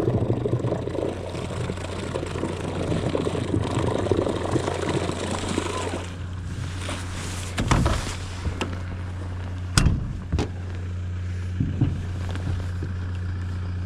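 Boat running on its electric trolling motor: a steady low hum, with water rushing along the hull for the first six seconds or so, then a few sharp knocks.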